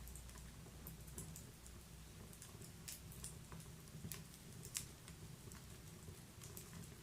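Wood fire crackling faintly in a fireplace: scattered sharp pops and snaps over a low steady rumble, with one louder pop about two-thirds of the way in.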